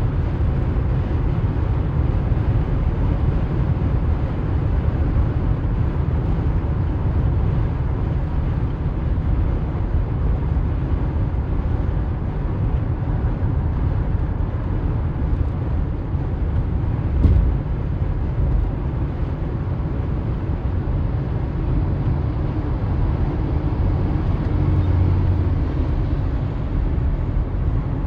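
Steady low rumble of a heavy vehicle's engine running, with a single knock about 17 seconds in.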